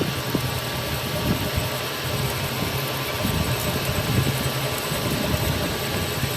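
An engine running steadily at constant speed, with a low, even throb.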